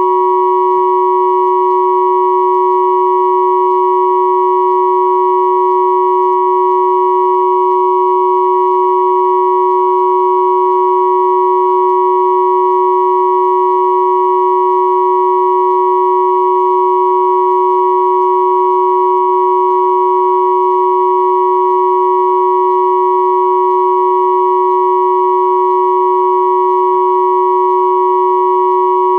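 Synthesized chord of pure sine tones at 369, 963 and 1111 Hz sounding together, held steady and unchanging, with faint higher tones above them.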